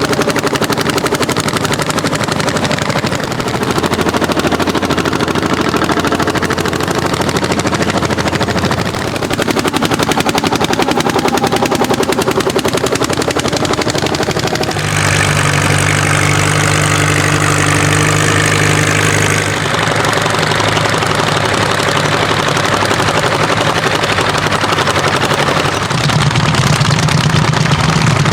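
Old tractor engines running hard while ploughing, heard in a series of short clips that change abruptly every few seconds. Among them are the single-cylinder hot-bulb diesels of vintage Landini and Orsi tractors.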